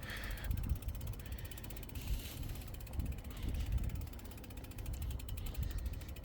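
Bicycle freewheel ticking rapidly as the bike rolls without pedalling, over a low rumble.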